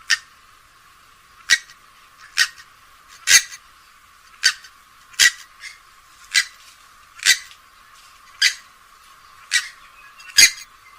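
Playback of short, sharp calls from a rail of the swamphen and moorhen family, about eleven of them at roughly one a second, with a thin sound that lacks any low end.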